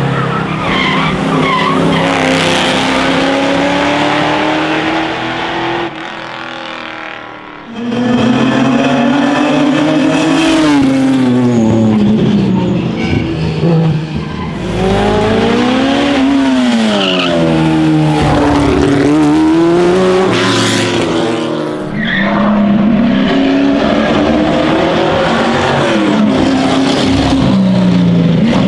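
Classic racing car engines at full throttle on a hillclimb, revving up and dropping back again and again through gear changes. The sound cuts between several cars, with a quieter stretch about six to eight seconds in.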